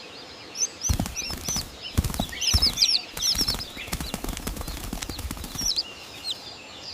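Small birds chirping in quick, high twitters, over a run of sharp taps and low thumps that starts about a second in and stops shortly before the end.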